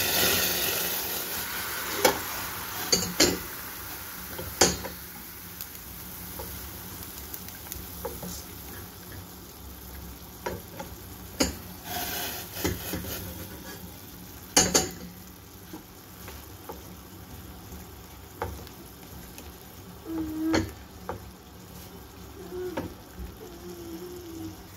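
Chopped vegetables and meat sizzling in a stainless-steel frying pan while a plastic spatula stirs and scrapes them. The spatula knocks sharply against the pan five times. The sizzle is loudest in the first few seconds.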